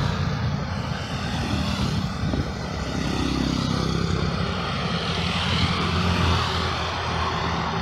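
Steady drone of a vehicle engine with road noise, holding an even level throughout.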